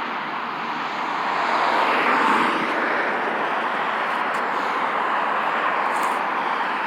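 Steady road noise of traffic going past, a rushing sound that swells a little about two seconds in as a vehicle passes.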